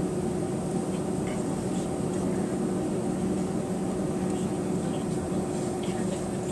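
Steady cabin drone inside an Airbus A320, heard from a rear seat, with its twin CFM56-5A3 engines running at low power before takeoff. It is an even hum with a few steady tones that neither rise nor fall.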